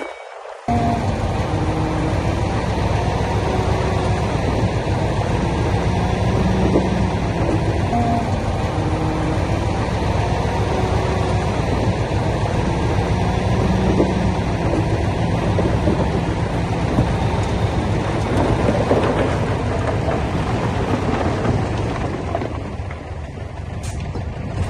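Heavy diesel construction machinery running and working, a loud, steady rumble with engine tones through it. It starts abruptly about half a second in.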